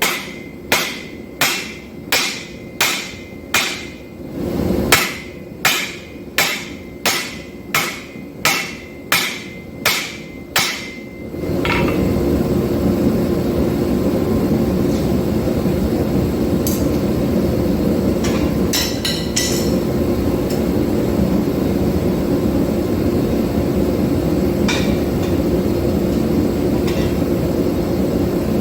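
Hand hammer blows on hot 5160 steel at the anvil, about one and a half ringing strikes a second, one heavier blow about 5 seconds in; the hammering stops about 11 seconds in and a steady roar takes over.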